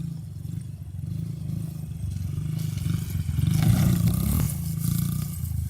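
Small 50cc dirt bike engine running, getting louder about three seconds in as it revs and passes close, with a rush of noise, then easing back.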